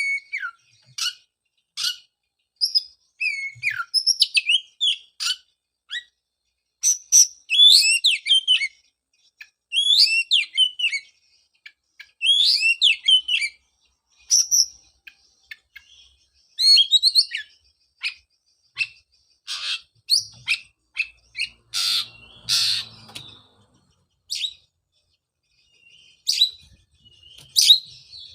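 Oriental magpie-robin singing: quick runs of sweet whistled and chirping phrases, coming in clusters a second or two apart. About two-thirds of the way in comes a louder, harsh rasping call.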